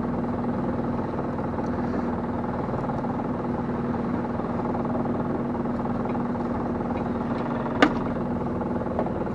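Small fishing boat's engine running steadily at idle during gill-net hauling, an even hum. One sharp knock sounds near the end.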